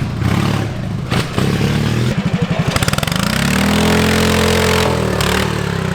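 Modified lawn mower engine of an off-road mud mower running under load and revving: it runs choppy and pulsing about two seconds in, then climbs to a high rev, holds it, and falls back off near the end.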